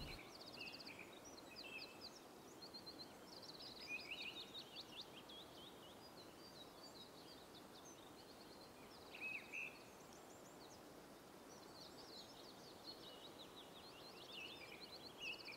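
Faint birdsong from several songbirds: short chirps, quick trills and rapid runs of repeated high notes, over a low steady hiss.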